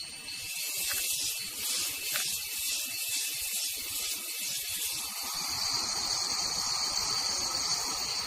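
Rainforest insects calling: a high, pulsing buzz of about two to three beats a second, which gives way after about five seconds to a steadier high trill.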